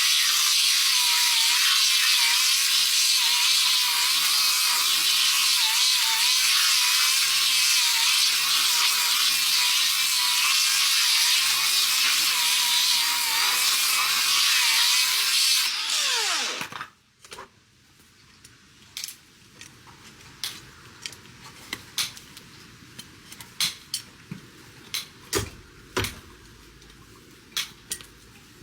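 Handheld electric power tool working a horse's hoof, running steadily under load with its motor pitch wavering. It is switched off about sixteen seconds in and winds down with a falling whine. Light clicks and knocks follow.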